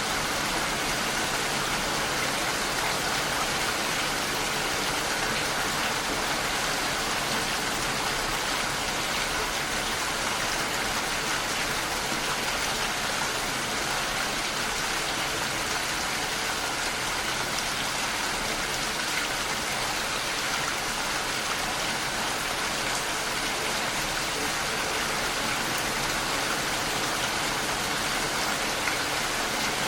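Rain falling steadily, an even hiss with no break or change.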